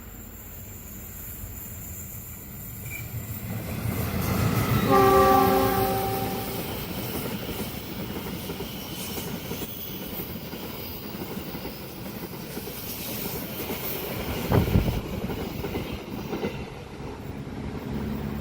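A train sounds its horn once, a chord of several tones lasting about a second and a half, then runs past with a steady rumble and wheel clatter over the rails. A single sharp knock comes near the end.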